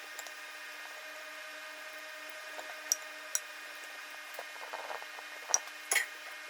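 Steady low electrical hum and hiss, with a few light clicks and taps, four of them spread through the second half.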